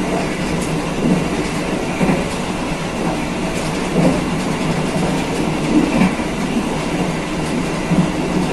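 Passenger train coaches running along the track: a steady rumble of wheels on rails with dull knocks every second or two as the wheels pass over rail joints.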